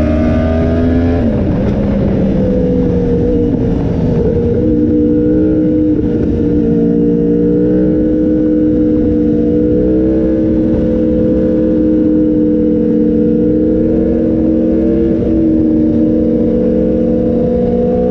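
Yamaha YZF-R1M's crossplane inline-four through an SC Project exhaust, heard onboard. The revs climb, drop sharply about a second in, and after a few unsettled seconds the engine holds a nearly steady pitch.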